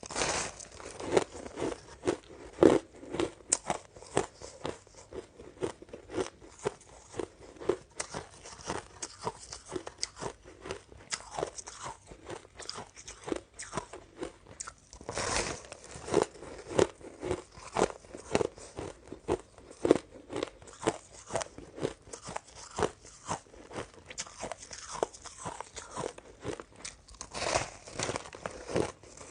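Close-miked crunching and chewing of shaved ice, a dense run of rapid, irregular crackles with a few louder bites.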